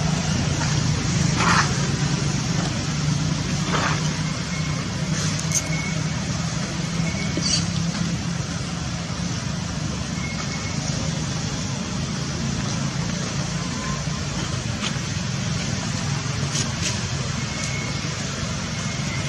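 Steady low rumble of a motor vehicle engine running. A few faint, short high chirps and light clicks are scattered through it.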